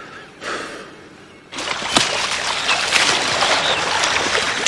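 Water splashing and sloshing, with many small splashes, starting suddenly about a second and a half in after a quieter stretch.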